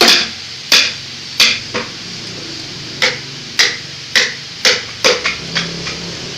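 Hammer blows on wood in chair-building: about nine sharp strikes in an uneven rhythm, with a brief pause about two seconds in.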